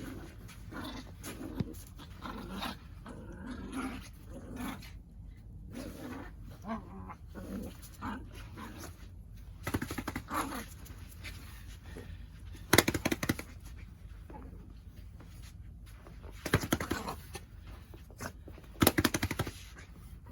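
A dog growling and grunting in play, many short rough sounds, with several louder, sharper outbursts in the second half.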